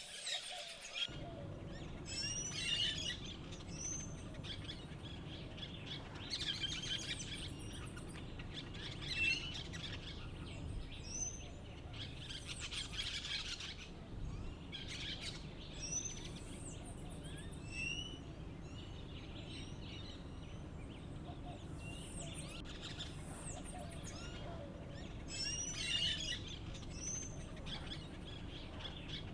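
A flock of white-winged parakeets calling: clusters of short, high chattering chirps every few seconds, over a steady low background hum.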